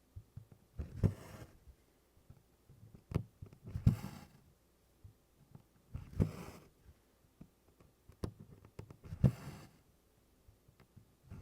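Hand stitching in DMC cotton floss on 24-count Congress cloth: each stitch gives a short tick as the needle goes through, then a swish as the thread is drawn through. The stitches come in an even rhythm, about one every two and a half seconds, four times.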